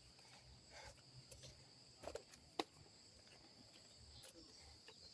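Faint, steady high-pitched trilling of crickets, with a few soft footsteps on the street.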